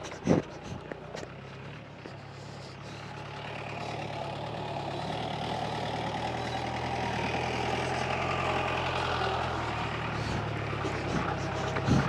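Off-road jeep engine approaching on a rough mountain track: a low, steady drone that grows louder over the first several seconds, then holds.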